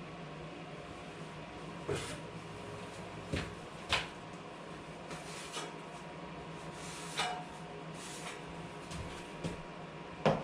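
Six sharp knocks and clacks, irregularly spaced, over a steady low hum; the last one, near the end, is the loudest.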